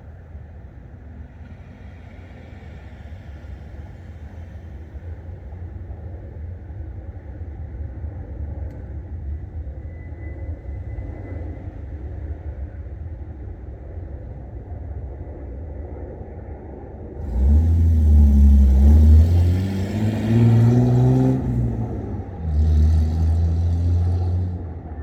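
Low steady rumble, then about two-thirds of the way in a motor vehicle's engine revs up loudly with its pitch rising as it accelerates, followed shortly by a second burst of engine noise.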